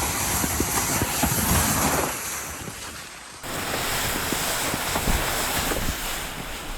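Wind rushing and buffeting over the microphone, a steady loud hiss with low rumbling gusts, changing abruptly about three and a half seconds in.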